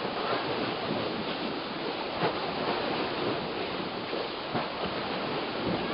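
Storm-driven lake waves splashing, with wind: a steady rushing noise, broken by a few sharper splashes.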